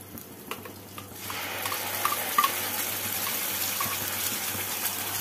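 Mustard paste dropped into hot mustard oil in a kadai, sizzling: the sizzle starts about a second in and runs on steadily. A few light clicks come from a spoon scraping the paste off a steel bowl.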